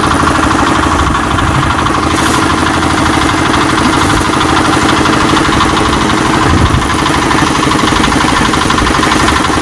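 A small engine running steadily at a constant speed, with a rapid, even knocking pulse.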